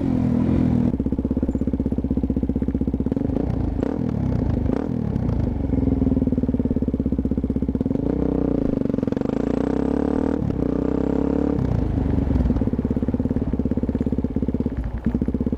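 Suzuki DR-Z400SM single-cylinder four-stroke engine running through a Yoshimura exhaust while being ridden. The engine note rises and falls several times with the throttle.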